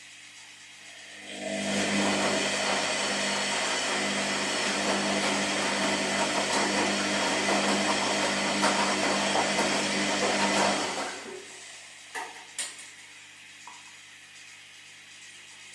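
Washing machine running: the drum motor turns the load for about nine seconds, then stops, followed by two short knocks and a low steady hum.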